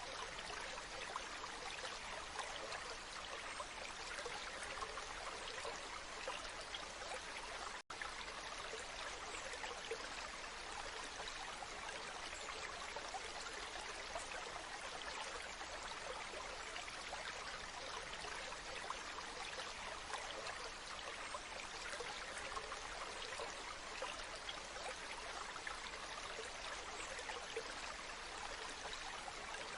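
Waterfall water rushing in a steady, even hiss, with a momentary dropout about eight seconds in.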